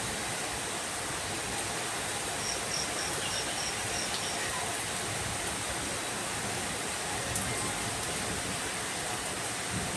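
Steady rain falling, an even hiss. About two and a half seconds in, a brief run of about seven high, evenly spaced peeps sounds over it.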